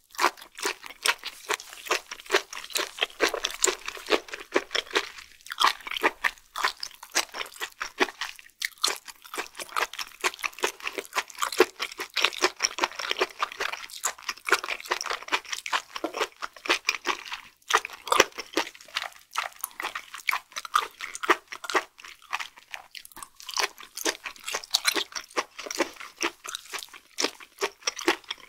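Close-miked chewing of firm, springy raw flatfish sashimi: a dense, continuous run of small wet clicks and smacks from the mouth.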